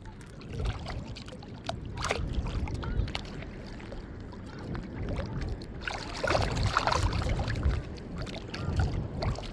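Seashore ambience at low tide: water sloshing, with irregular low gusts of wind buffeting the microphone and a few small clicks. It grows louder in the second half.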